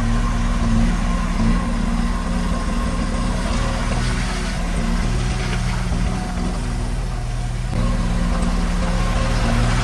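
Diesel engine of a bulldozer or dump truck running steadily. Its low hum weakens for a few seconds midway and comes back strongly near the end.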